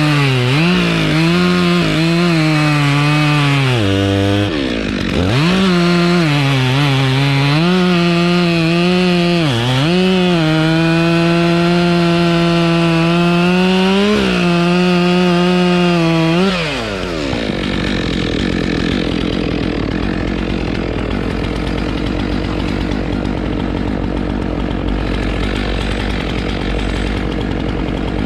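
Two-stroke chainsaw running at high revs and cutting wood, its pitch dipping under load several times and recovering. At about two-thirds of the way through it winds down, and a steady, even rumbling noise carries on.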